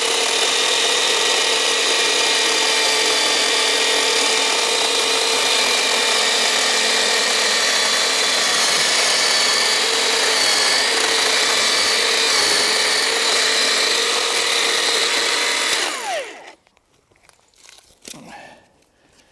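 Black & Decker GKC3630L20 36 V cordless electric chainsaw running steadily while cutting a log. About sixteen seconds in, the motor is let off and winds down with a falling whine to a stop.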